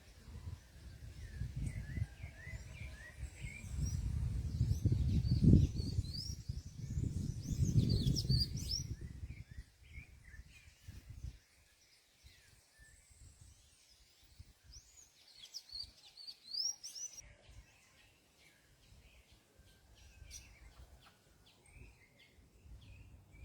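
Small birds at a fruit feeder chirping in short, quick bursts of high notes, in several clusters. For the first half there is also a loud, uneven low rumble, which then dies away.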